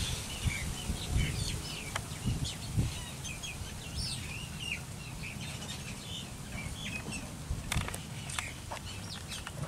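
Small birds chirping repeatedly in short quick calls over a low outdoor rumble, with a few sharp clicks near the end.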